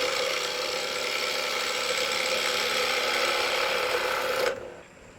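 Wood lathe spinning a block of construction lumber while a turning tool cuts across its face to flatten it: a steady cutting noise with a steady tone under it, which stops abruptly about four and a half seconds in.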